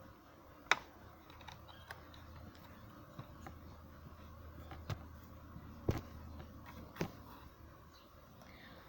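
Hands working a plastic mini sewing machine while threading it: a few light, sharp clicks, several seconds apart, over a faint low hum.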